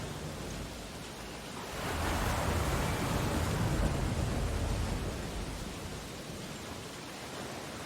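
Ocean surf: a steady wash of waves, with one wave building about two seconds in, breaking and then receding over the next few seconds.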